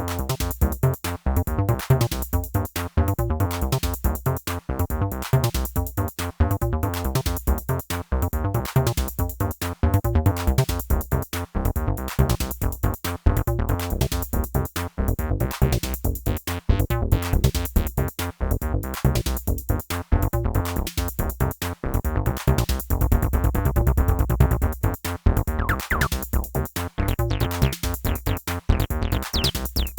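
Two Behringer TD-3 bass synthesizers, a TD-3-MO and an original TD-3, playing sequenced 303-style bass lines together over a Behringer RD-8 drum machine pattern, in a steady, rapid rhythm of short notes with a heavy low end.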